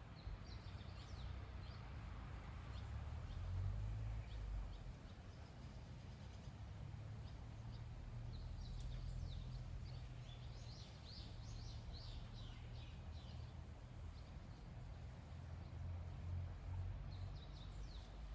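Small birds chirping in short bursts of quick high calls over a low, steady rumble of background noise.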